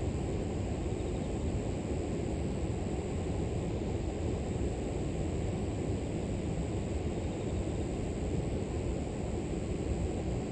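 River water flowing steadily, a constant low rushing, with a steady high insect chorus above it.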